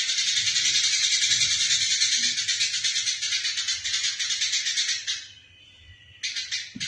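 Eurasian tree sparrows giving a dense, rapid fighting chatter. The chatter breaks off about five seconds in and starts again about a second later.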